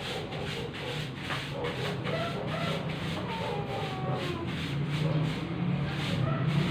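Broom sweeping a floor in quick repeated strokes, about three or four a second.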